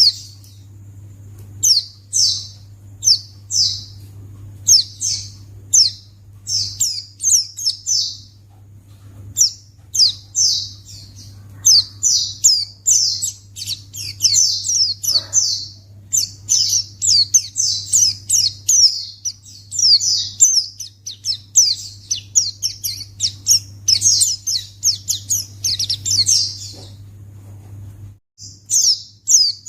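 White-eye (pleci) singing a long run of rapid, high chirping phrases and trills, with a steady low hum underneath. The song breaks off briefly near the end and then resumes.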